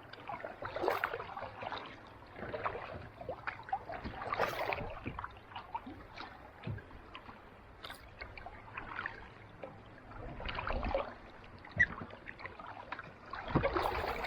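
Kayak paddle dipping into calm sea water in slow strokes, a splashing swish every few seconds with drips and trickles between.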